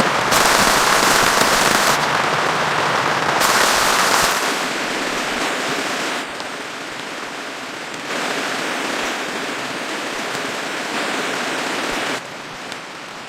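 Rain falling on polyethylene stretch-film sheeting, a dense crackling patter that jumps in level several times.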